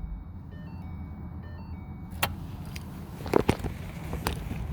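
A car's electronic chime plays a short run of stepped tones just after the engine is switched off. It is followed by several sharp clicks and knocks inside the cabin.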